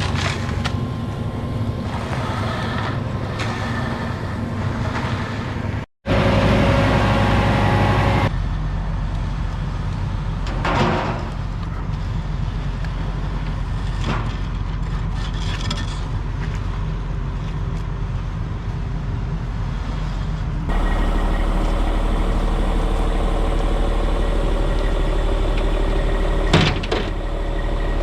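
Concrete truck's diesel engine running steadily at a slab pour. It drops out for an instant about six seconds in and changes abruptly twice more where clips are spliced. A short sharp knock comes near the end.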